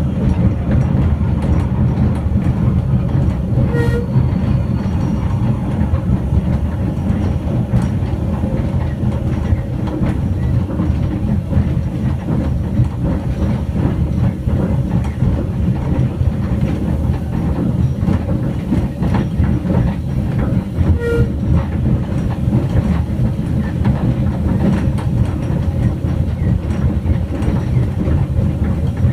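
Small steam-hauled train running along the track, heard from the carriage: a steady low rumble of wheels on the rails, with two brief whistle toots, one a few seconds in and one about two-thirds of the way through.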